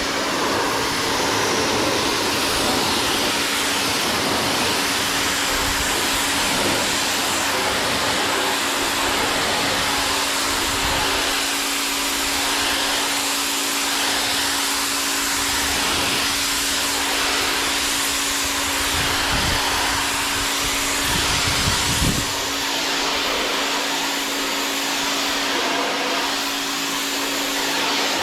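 Pressure washer running steadily: a loud, even hiss of spray over a constant motor hum, washing grime and sand off an aluminum jon boat.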